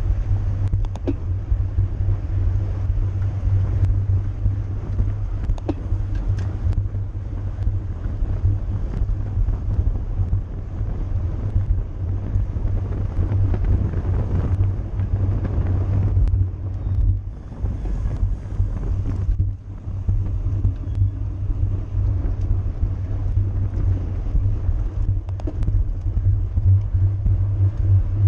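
Wind buffeting the microphone of a camera on a moving bicycle, a steady low rumble with a few light clicks, briefly easing off about two-thirds of the way through.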